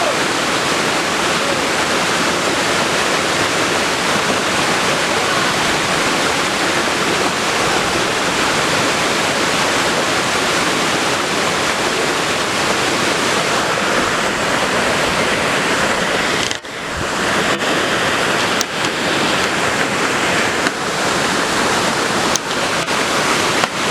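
Waterfall: a steady, loud rush of falling water, broken by a brief sharp dip about two-thirds of the way through.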